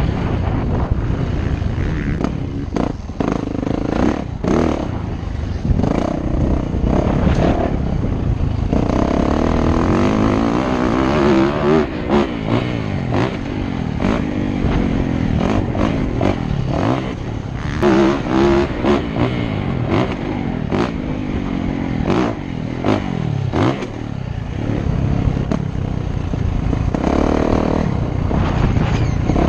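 Motocross dirt bike engine revving up and falling back over and over, with scattered clattering knocks.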